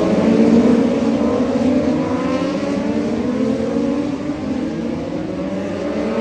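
Racing motorcycles running at speed past the track, several engine notes overlapping and sliding gradually down in pitch.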